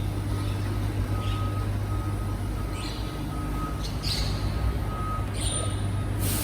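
Garbage truck's reversing alarm beeping in a steady repeating pattern, about two beeps a second, over a steady low hum from the truck, with a few short hisses.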